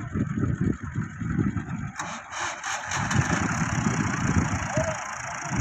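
Tractor diesel engine running under load, with a rough uneven rumble; about two seconds in, a hissing noise with a few sharp clicks joins it.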